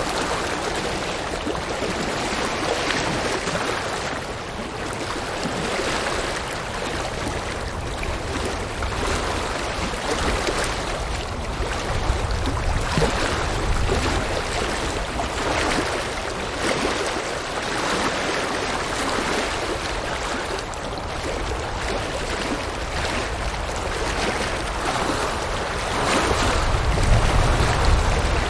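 River water rushing steadily over rocks, its wash swelling and easing every second or two, with gusts of wind rumbling on the microphone now and then.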